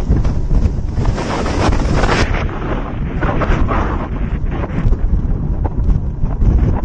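Strong storm wind buffeting the microphone in gusts, over the rush of the sea around a fishing boat.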